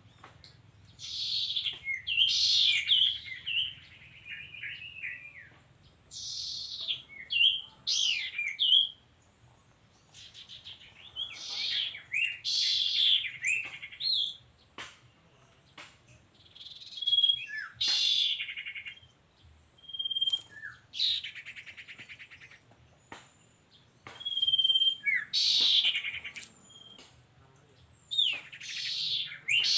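Burung sirtu song: short, bright, warbled phrases repeated in bursts every few seconds, serving as the lure call in a trapping setup. A faint steady high-pitched tone runs underneath.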